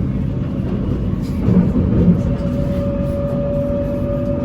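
BTS Skytrain electric train running with a steady low rumble. A steady whine sets in about a second and a half in, after a brief louder moment.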